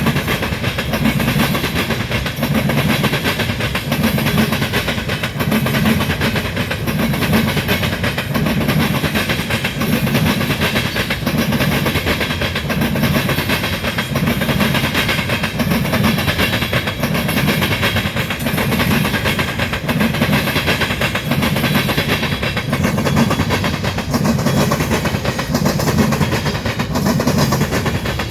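Freight train of tank cars rolling past, a steady rumble of steel wheels on rail with faint regular clicks over the rail joints.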